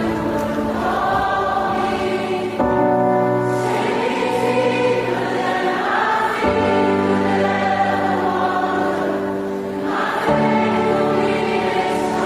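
Choir singing a slow worship song in long held chords, with the chord changing about every four seconds.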